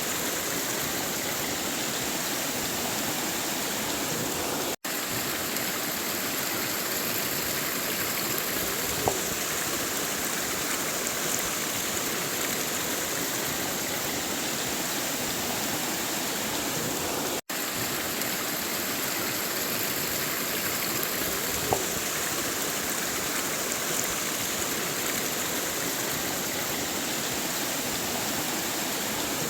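River water flowing steadily, an even, unbroken wash of water noise that cuts out for an instant twice.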